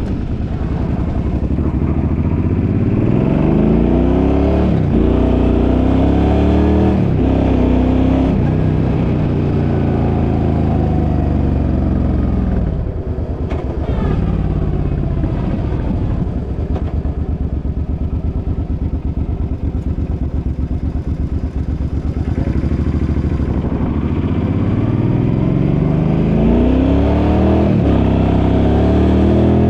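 Suzuki's engine under way, pulling up through several gears with its pitch climbing and then dropping back at each shift. It eases off briefly about halfway, holds a steady cruise, then climbs through the gears again near the end. It is running without the rattle the owner says he fixed.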